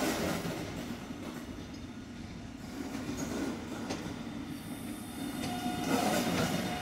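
New Alstom electric passenger train rolling slowly past on the rails, wheels and running gear rumbling steadily, with a thin wheel squeal setting in about two-thirds of the way through.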